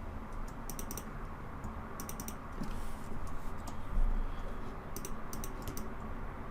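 Computer keyboard being typed on: several short runs of key clicks, over a steady low hum.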